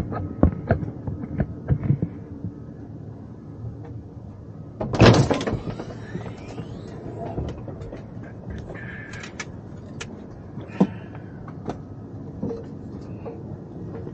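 Scattered knocks and clicks of handling and work noise, with one loud sliding, scraping rush about five seconds in, followed by a brief rising tone.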